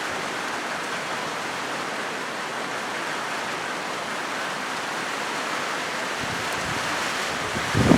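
Rain falling on a corrugated zinc roof, a steady even hiss of drops. Near the end a louder low rumble swells up.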